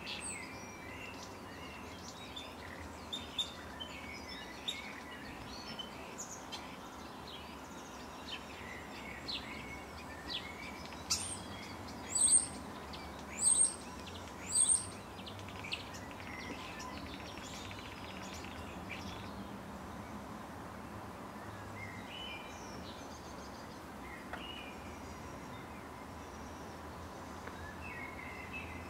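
Small birds chirping over a steady background hiss, with many short high calls and three louder chirps about halfway through, then fewer calls. A faint steady high tone runs under it.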